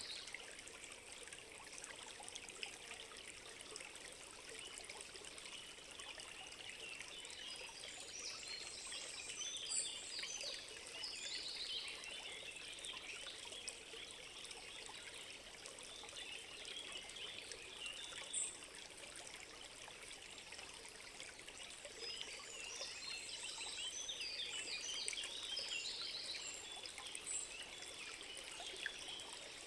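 Small forest stream trickling over stones, with flurries of high bird chirps coming and going.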